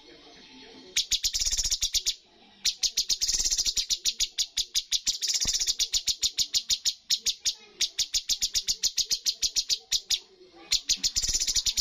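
Cucak cungkok songbird singing in runs of rapid, evenly spaced sharp notes, its 'tembakan' (shooting) song. Each run lasts one to five seconds, with short breaks between them.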